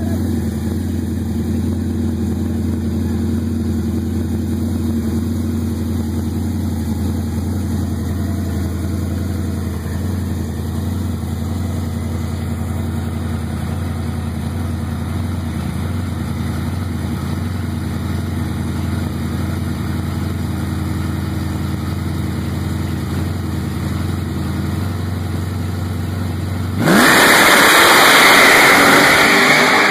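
A Chevrolet Cheyenne pickup's engine running at a steady speed with an even hum. Near the end, the hum drops out suddenly and a much louder rushing hiss takes over.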